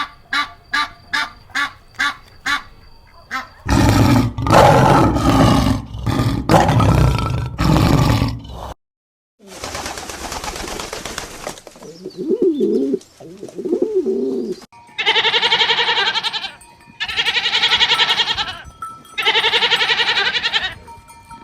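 A string of different animal calls, one clip after another: a fast series of short calls, then louder calls, a brief gap, low cooing, and three long loud calls near the end.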